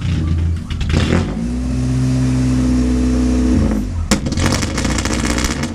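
Honda H22A4 VTEC four-cylinder in a Civic hatch being revved. The engine is held at a steady high rpm, then a sharp crack about four seconds in is followed by rapid crackling for about a second and a half. The owner suspects this engine has blown piston rings in cylinder one.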